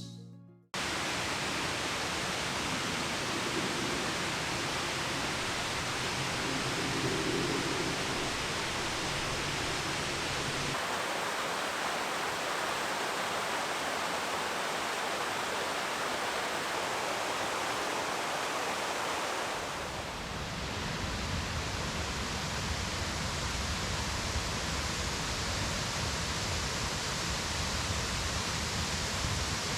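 Steady outdoor rushing hiss with no distinct events, in three stretches whose tone changes abruptly about a third and two-thirds of the way through.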